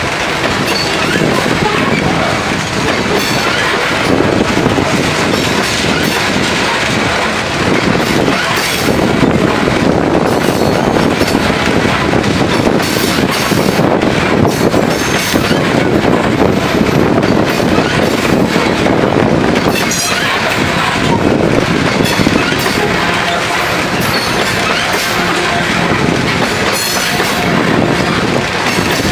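Loaded coal train's cars rolling past at speed: a steady loud rumble of steel wheels on rail, with repeated clicks as the wheels cross rail joints.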